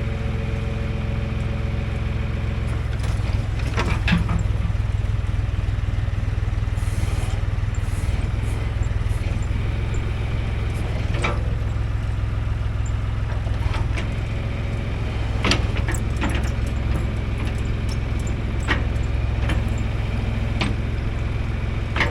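John Deere backhoe engine running steadily while the boom is swung side to side, with sharp clanks every few seconds as it changes direction: the knock of a badly worn, sloppy swing.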